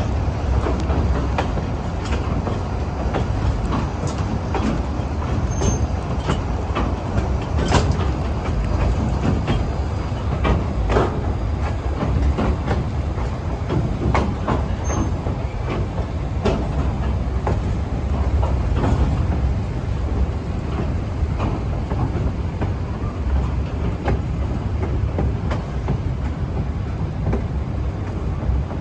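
Train rolling along the track: a steady low rumble with irregular clanks and knocks from the wheels over the rail joints and from the running gear.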